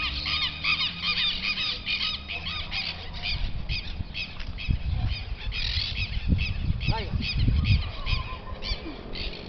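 Birds calling: a rapid string of short, harsh, repeated calls, thickest in the first few seconds and thinning out later, with low rumbling bumps underneath in the middle.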